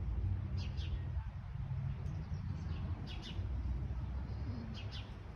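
Small songbirds chirping in short quick bursts, several times, over a steady low rumble.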